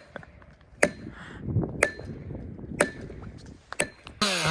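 Four sharp strikes about a second apart, each with a brief ringing tone, typical of a felling wedge being hammered into the cut. Near the end a chainsaw starts up abruptly, running and revving.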